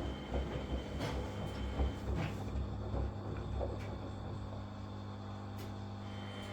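Front-loading washing machine running its wash cycle: a steady motor hum with laundry thumping in the turning drum, the thumps easing off about two and a half seconds in.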